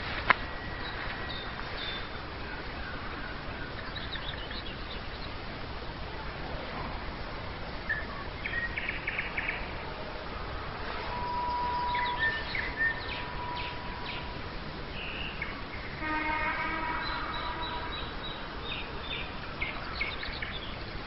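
Nightingale singing in separate varied phrases: a sharp click just after the start, quick runs of repeated notes, a long level whistle near the middle, and a fast rattling series of repeated notes a few seconds before the end, over a steady low background noise.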